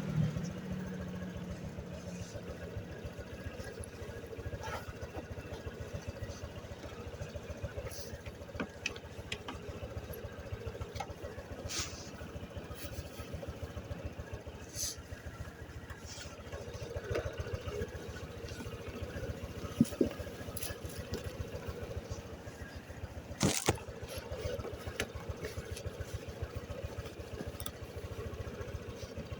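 Motorcycle engine idling with a steady, fast pulse, with a few sharp clicks and knocks, the loudest about twenty seconds in and again a few seconds later.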